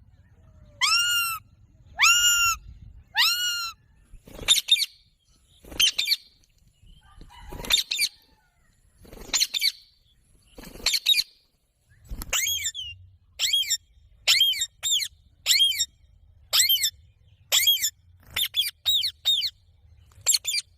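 Indian ringneck parrot (rose-ringed parakeet) giving a long series of short, shrill calls, about one a second at first, then coming faster in quick runs in the second half.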